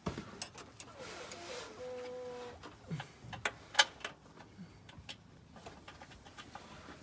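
Scattered metallic clicks and knocks of hand tools and bolts being worked while an engine is bolted up to its gearbox, with a short steady tone a little after two seconds and the sharpest clicks just before the four-second mark.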